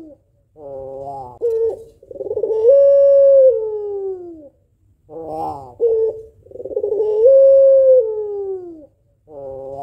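Female white puter pelung (Barbary dove) cooing. It calls twice, each time a short rough stuttered note followed by a long drawn-out coo that rises, holds, then slides down in pitch.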